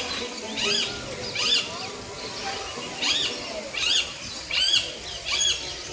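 Birds squawking in a steady series, a short harsh call roughly every three-quarters of a second, about eight in all.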